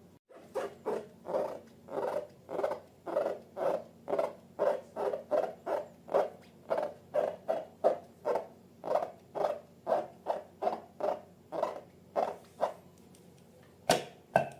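Slime being squeezed and pressed by hand, giving a rhythmic run of wet squelches at about two a second. The squelching stops, then comes one sharp click or snap near the end.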